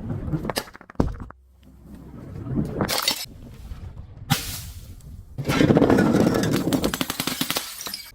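Glass breaking and shattering in several separate events, the last and loudest a crackling crunch of shards lasting a couple of seconds.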